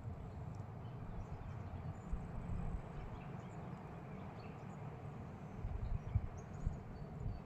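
Outdoor nature ambience in Finland: a steady background rustle with irregular low rumbles, and faint, brief bird chirps scattered throughout.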